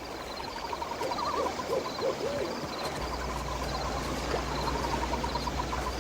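Night ambience: an owl hooting a few times over a steady, evenly repeated chirping, with a low hum coming in about halfway through.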